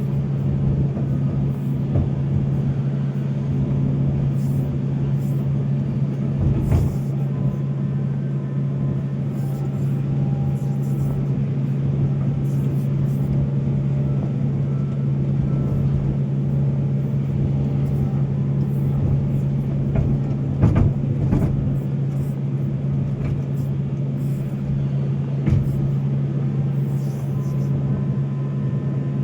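Volvo excavator's diesel engine running steadily under load, with a few short knocks about a quarter of the way in and again past the middle.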